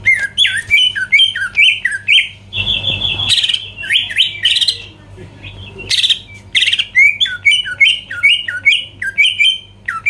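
A cucak ijo (greater green leafbird) singing a fast run of short, sharp chirps, broken twice by harsher buzzy rasping notes, about three seconds in and again about six seconds in.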